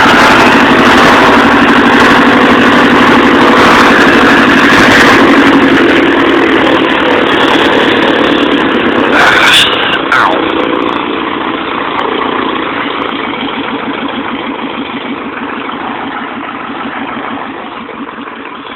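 Taylorcraft BC-12D light aircraft engine running at high runup power, then throttled back so its pitch and level fall gradually toward a lower speed over the second half.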